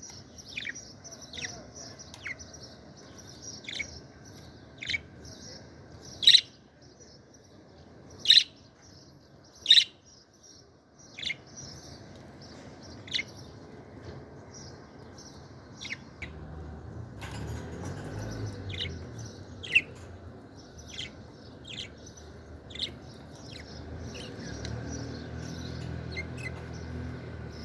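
Budgerigars chattering and warbling continuously, with sharp, loud single chirps every second or two. A low rumble joins in the background about halfway through.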